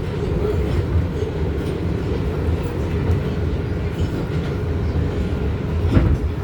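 Inside an R188 subway car of the 7 train running on the rails: a steady rumble of wheels and running gear with a faint steady motor whine. A single sharp knock comes near the end.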